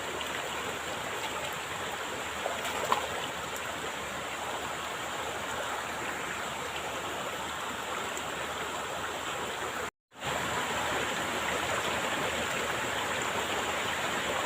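Steady rush of a flowing stream or river current, an even wash of water noise. It drops out to silence for a moment about ten seconds in.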